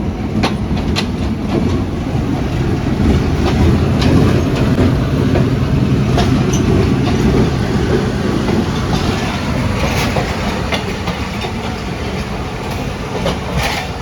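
Passenger train running on the rails: a loud, steady rumble of the coaches with scattered sharp clicks of the wheels passing over rail joints.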